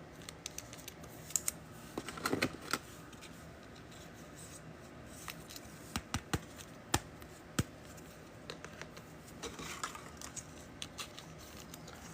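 Trading cards and pack wrappers being handled on a table: scattered light clicks and taps of card edges, with two brief rustles, about two seconds in and near the end.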